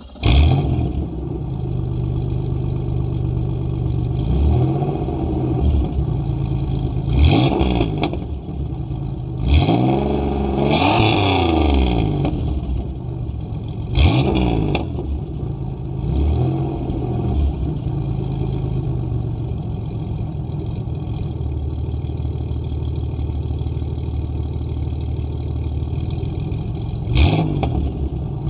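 Exhaust note of a 1991 Pontiac 6000's 3.1-litre V6 through a new Walker SoundFX dual-outlet muffler. The engine starts up, idles, and is revved in short blips several times, then settles into a long steady idle, with one more rev near the end.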